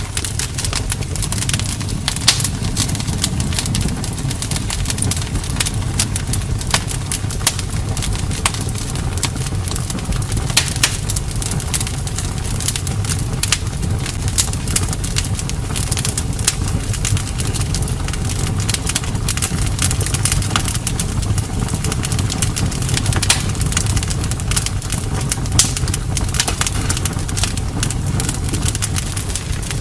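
Campfire burning: a steady low rumble of the flames with frequent, irregular sharp crackles and pops from the burning wood.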